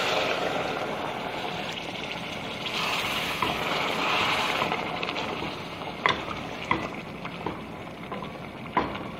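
Water poured into a hot pot of chicken frying in masala, hissing and sizzling as it hits the oil and then bubbling. A few light sharp knocks come in the last few seconds.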